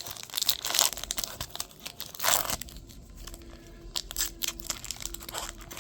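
Trading card pack wrapper being torn open and crinkled by hand: a quick run of sharp crackles and rustles in the first couple of seconds, then sparser, softer handling rustles.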